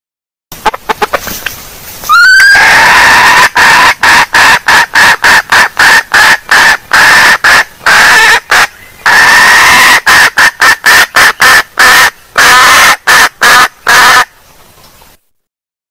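Junglefowl hen calling: a few short clicks and a rising note, then a long run of loud, evenly repeated clucking calls, about two a second. It is a hen's lure call, used to draw in wild junglefowl.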